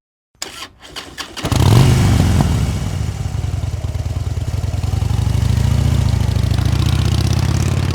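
A few sharp clicks, then an engine starts about a second and a half in and keeps running steadily with a low hum.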